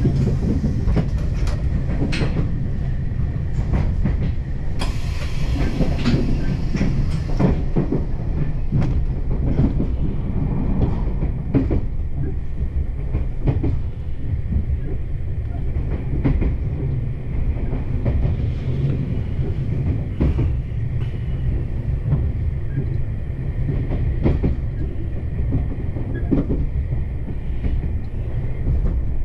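Meitetsu 1200 series electric train running, heard from inside the passenger car. A steady low rumble with many clicks of wheels over rail joints, and a high hiss lasting a couple of seconds about five seconds in.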